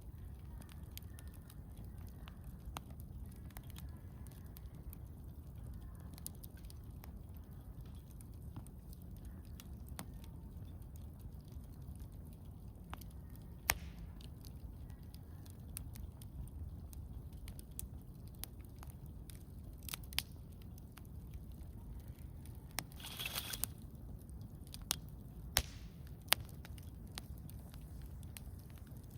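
Wood campfire crackling, with sporadic sharp pops and a short flurry of crackles a little after the middle, over a low steady background.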